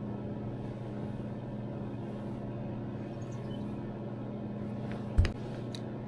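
Steady low hum of a heater running, with a sudden thump and a couple of sharp clicks about five seconds in.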